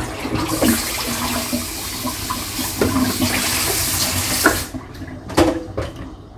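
Water running hard from a kitchen tap, shut off about four and a half seconds in, followed by a sharp knock a moment later.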